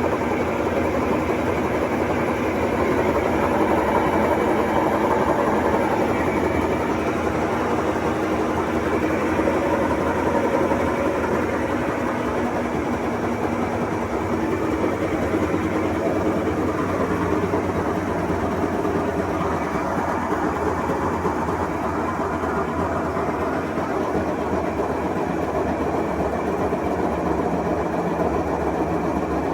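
Washing machine spinning loudly with a steady, dense mechanical noise from bad tub bearings, which were ruined by water leaking past the tub seal.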